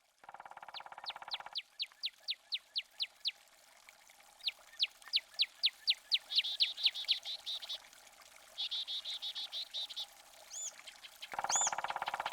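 A songbird singing: two runs of quick, down-slurred high notes at about five or six a second, then a fast trill, then a few separate higher arched notes near the end. A short buzzing tone sounds at the start and again near the end.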